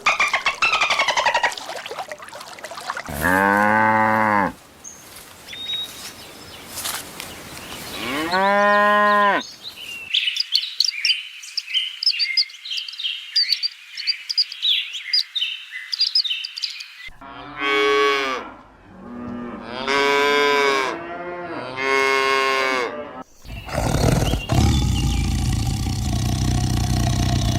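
Cattle mooing: two long calls that rise and fall in pitch, a few seconds apart. High chirping follows, then a run of shorter calls, and near the end a steady noisy sound takes over.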